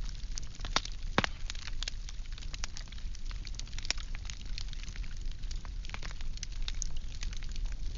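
Firewood burning with a steady stream of irregular crackles and snaps over a low roar of the flames; one sharper pop about a second in.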